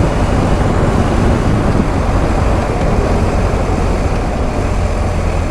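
Steady, loud wind rush and road noise from a BMW R1250 GS Adventure motorcycle riding along at speed, with the low drone of its boxer-twin engine underneath.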